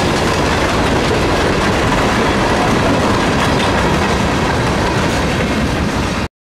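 Freight train cars, covered hoppers and gondolas, rolling past on the track: a steady, loud noise of steel wheels running over the rails. It cuts off suddenly about six seconds in.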